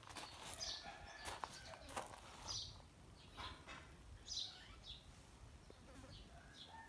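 Faint outdoor ambience with short, high bird chirps every second or two, and a few sharp clicks in the first couple of seconds.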